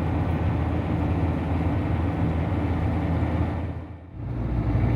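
Motorhome driving: a steady engine and road drone. It dips briefly about four seconds in and comes back at a slightly different pitch.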